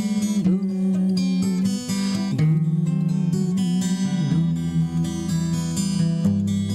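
Instrumental break in a song, without singing: acoustic guitar playing over held low notes that change every second or two.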